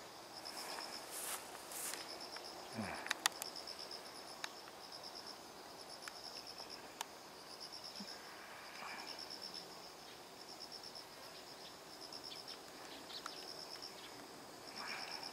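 Insects chirping faintly: repeated trains of high-pitched pulsed chirps, one every second or two, with a few faint clicks.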